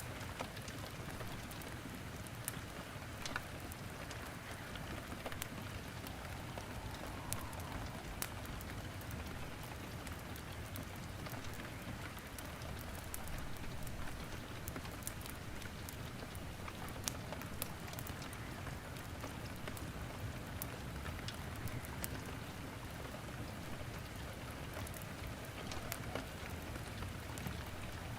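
Steady rain falling, mixed with a wood fire crackling in a fireplace, with irregular sharp pops scattered throughout.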